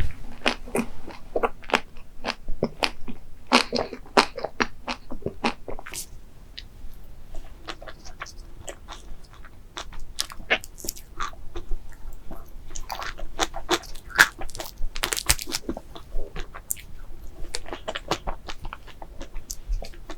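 Close-miked eating sounds: a crunchy dessert being bitten and chewed, a run of sharp crackling crunches in clusters with short lulls of softer chewing.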